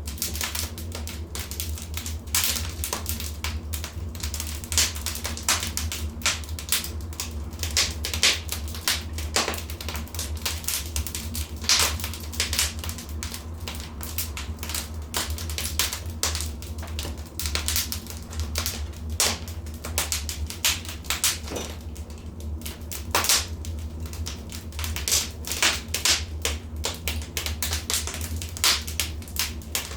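Wood fire crackling in a fireplace: many irregular sharp pops and snaps over a steady low rumble, with a few pops louder than the rest.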